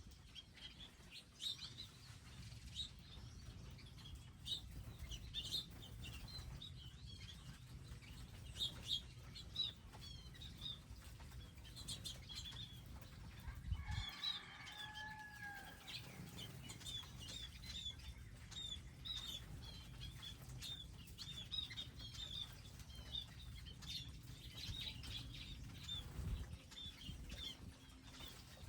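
Small birds chirping at a feeder area: many short, high chirps throughout, with one lower, longer call about halfway through. A steady low rumble runs underneath.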